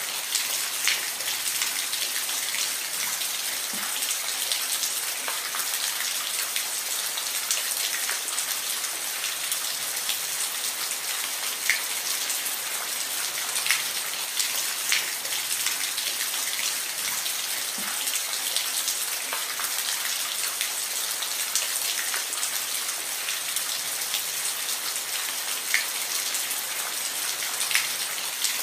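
Steady rain falling, a dense even hiss with individual drops ticking sharply every second or two.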